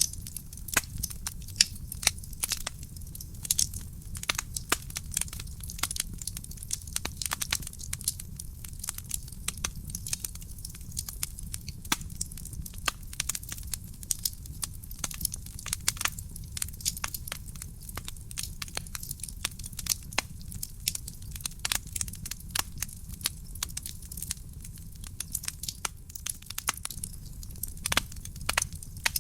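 Wood fire burning in a fireplace: a steady stream of irregular sharp crackles and pops over a low, even rumble of the flames.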